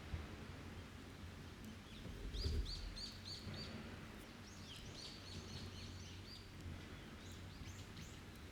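A forest songbird singing runs of quick, repeated high chirps, about five notes at a time, twice in a row, over faint ticks from an open wood fire. A brief low rumble comes about two and a half seconds in.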